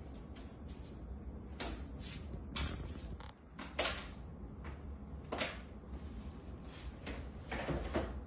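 Irregular short scrapes and knocks, about a dozen, over a low steady hum; the loudest come about four seconds and five and a half seconds in.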